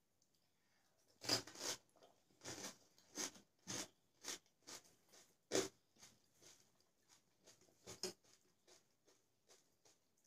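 Crunchy golgappa (pani puri) shell being chewed close to the microphone. A run of sharp, crisp crunches is loudest in the first few seconds, with one more loud crunch midway, then thins out into fainter crackles.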